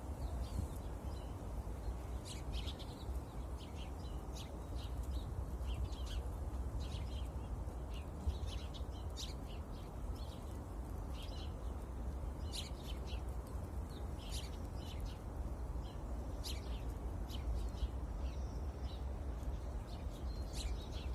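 Sparrows chirping, many short chirps in quick succession from several birds, over a steady low background rumble.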